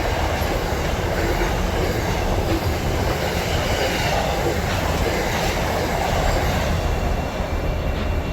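Freight train's empty well wagons rolling past on the track: a steady rumble of wheels and rail with a faint squeal of wheels in it.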